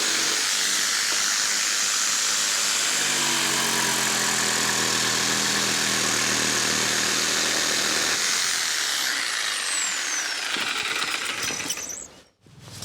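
Handheld electric power tool running as it cuts timber trackbed pieces. A high whine falls in pitch about two-thirds of the way through as the tool slows, and the sound cuts off abruptly near the end.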